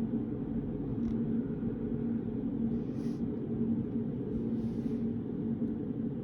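Steady low room hum of a study room, with a faint steady tone in it, and three faint brief rustles, about one, three and nearly five seconds in.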